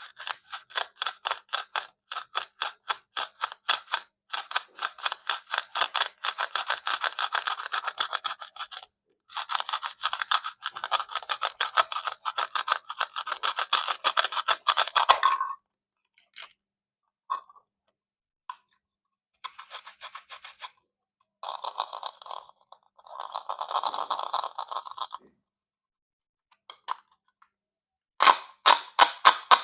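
Plastic toy fruit being cut with a plastic knife: long runs of rapid clicking ticks, a few short gaps, then scattered single clicks and shorter runs of clicking near the end.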